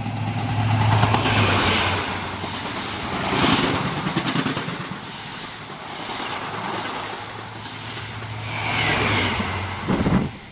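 Diesel passenger train passing through a station at speed: a steady engine drone under the rush of wheels on the rails, swelling as the coaches go by and falling away near the end.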